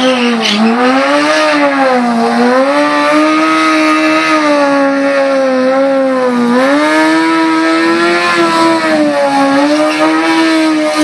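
Sport bike engine held at high revs while the rear tyre spins in a smoky burnout. The pitch stays high, dipping and climbing back a few times, about two seconds in and again around six seconds.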